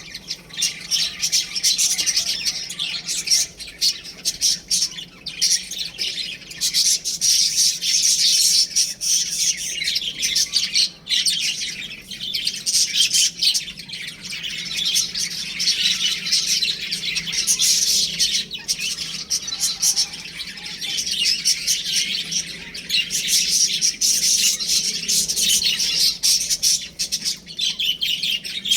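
A group of baby chicks peeping, a dense, unbroken chorus of overlapping high chirps.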